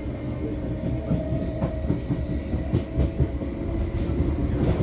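Electric passenger train running at speed, heard from inside the carriage: a steady low rumble of wheels on rails with a faint steady whine, and a few sharp clicks of the wheels.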